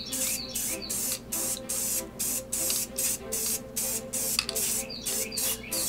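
Aerosol spray-paint can sprayed in short, quick bursts, about two or three hisses a second, with a brief pause about four seconds in. Background music plays underneath.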